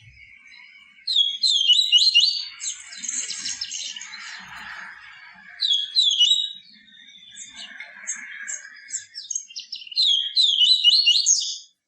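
Papa-capim seedeater singing: three bursts of song, each a quick run of high, sharply sliding chirps, with softer notes between them.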